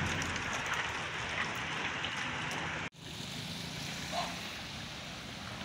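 Steady hiss of rain and storm water running in a flooded street. It cuts off abruptly about three seconds in and comes back quieter, with a brief faint chirp about a second later.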